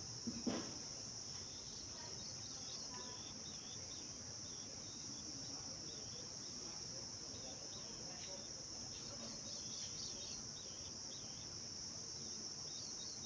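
Steady high-pitched drone of insects such as crickets, with faint bird chirps scattered through. A brief thump about half a second in is the loudest thing in it.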